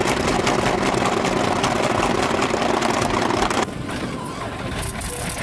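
A large engine running loudly with a dense, rapid clatter, cut off abruptly about three and a half seconds in and replaced by a quieter engine running.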